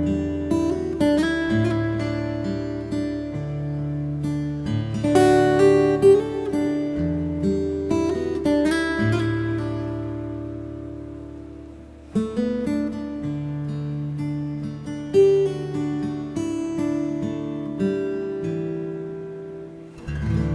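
Slow, relaxing acoustic guitar music: plucked notes and strummed chords ring out and decay. A phrase fades away about twelve seconds in, and a new one begins.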